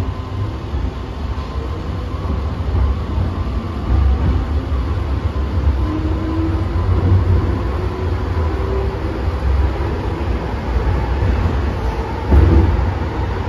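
MTR M-train electric multiple unit running, a steady low rumble with a faint steady whine above it, and a brief louder thump about twelve seconds in.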